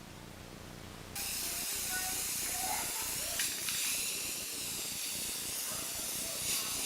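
Aerosol spray paint can spraying in a steady hiss that starts abruptly about a second in and keeps going.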